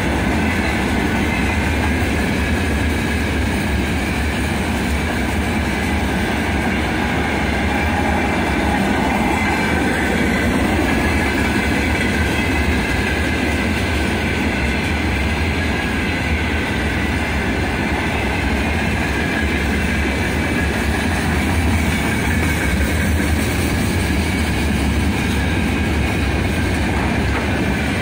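Long freight train of open gondola wagons rolling past close by, a steady rumble and rattle of wagon wheels on the rails.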